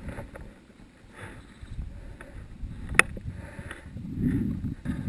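BMW F800GS parallel-twin engine running under wind rumble on the microphone, getting louder in the last second or so; a single sharp click about three seconds in.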